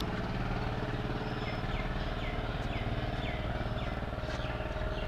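A vehicle engine running steadily, most likely the bus just left, with a row of short, falling high chirps about one to three and a half seconds in.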